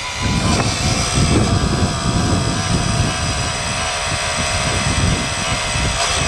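Wind buffeting the microphone in irregular gusts, with a faint steady whine above it.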